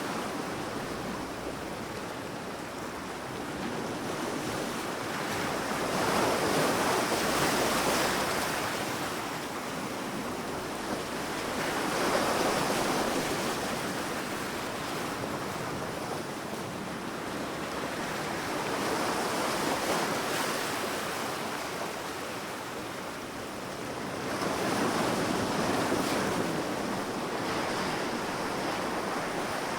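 Sea waves breaking on a sandy beach, the surf swelling and fading about every six seconds.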